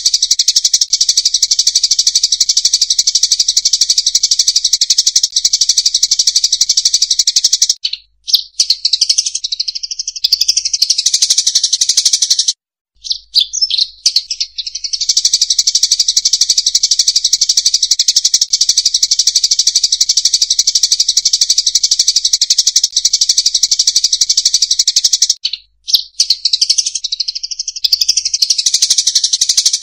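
Munia lure call: a flock of field munias chattering in a dense, steady stream of rapid high chirps. The stream breaks off twice for a few seconds of sparser single calls, about a third of the way in and again near the end.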